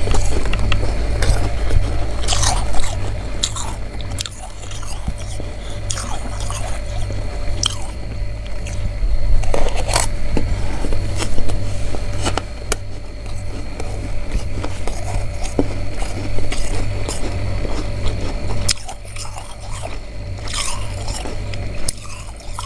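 Crunchy freezer frost being bitten and chewed fast, with a steady stream of irregular crunches close to the microphone, over a steady low hum.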